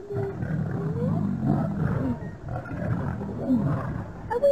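Lions growling and snarling aggressively: a continuous low rough rumble with short rising and falling calls over it.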